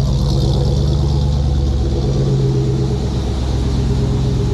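Dodge Magnum's 5.7 Hemi V8 idling steadily just after a fresh oil change, running smoothly. Its idle note shifts slightly about two seconds in.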